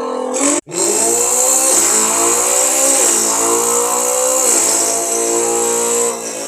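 Car engine accelerating hard, its pitch climbing and dropping back at each of about three gear changes, after a brief cut near the start.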